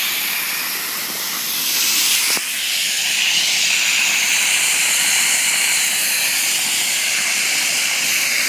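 Steady loud hiss of water left running and spraying out hard, with a single brief click about two and a half seconds in.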